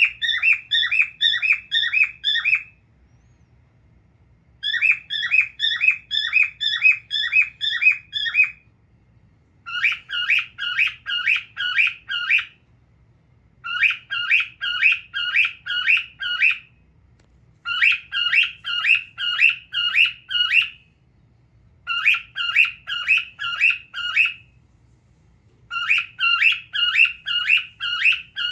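A cockatiel calling in short repeated chirps, about three a second, in runs of three to four seconds with short pauses between. From about nine seconds in the chirps change to a slightly lower, fuller call.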